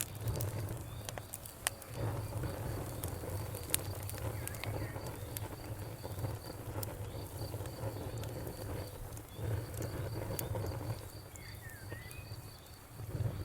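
Wood fire crackling in a fireplace: scattered sharp pops and snaps over a low, wavering rumble of flames. A steady, high-pitched pulsing chirp runs underneath.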